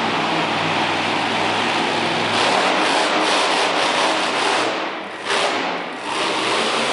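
Monster truck engine running hard at high revs, loud and harsh, its steady engine tone lost in noise after about two seconds. The sound dips briefly twice near the end.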